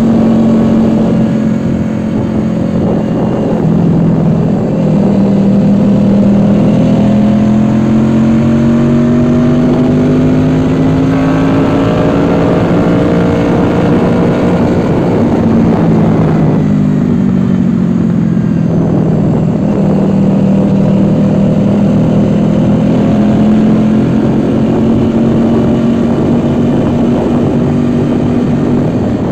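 Honda VFR800X Crossrunner's V4 engine heard on board while riding, over wind rush. The engine note climbs steadily for about ten seconds as the bike accelerates, drops back about halfway through as the throttle comes off, then holds steady at cruising speed.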